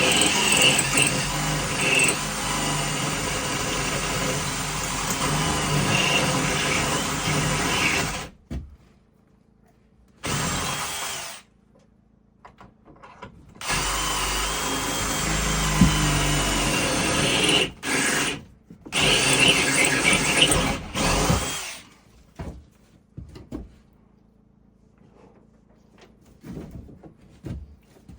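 Power drill running in bursts during door framing: one long run of about eight seconds, then three shorter runs with pauses between. Near the end only a few light knocks.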